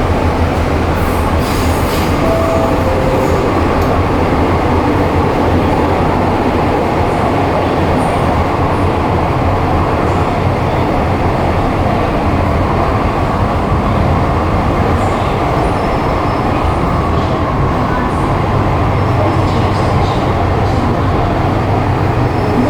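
MTR M-Train metro train running along the track, a loud, steady rumble of wheels on rails with no break.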